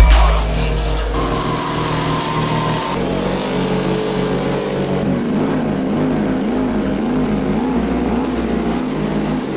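Truck engines running and revving.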